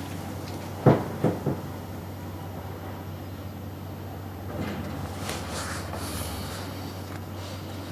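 Strong wind blowing, with three sharp thumps about a second in, the first the loudest, and a stretch of rustling noise later on.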